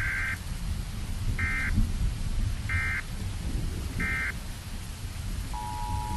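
Synthesized tornado warning alert tones: three short high beeps about a second and a half apart, then a steady lower two-tone alert signal starting near the end. Underneath is a continuous low rumble of synthesized thunder and rain.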